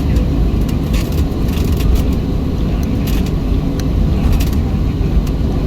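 Boeing 737-700 cabin noise while taxiing: a steady low rumble from the engines and the rolling aircraft, with scattered light clicks and rattles.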